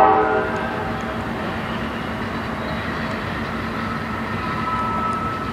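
A freight locomotive's multi-note air horn ends about half a second in, and a passing freight train's steady rumble carries on after it. A faint thin high tone comes in near the end.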